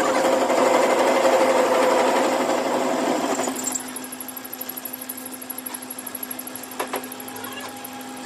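A machine rattling rapidly and evenly for about three and a half seconds, then dropping to a quieter steady hum with a faint high whine, with one sharp click about seven seconds in.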